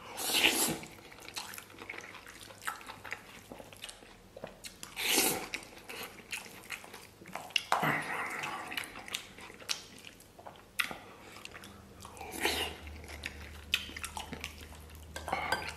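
Close-up chewing and mouth noises of a man eating rice with tomato-braised beef brisket. Short clicks and a few louder wet bursts a few seconds apart come through, along with the scrape of a wooden spoon in a stainless steel bowl as he scoops more.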